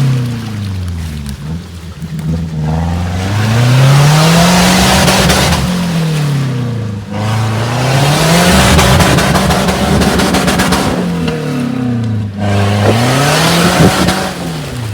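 Off-road vehicle's engine revving up and dropping back several times, a few seconds apart, under a steady hiss of tyres spinning and churning through mud and snow.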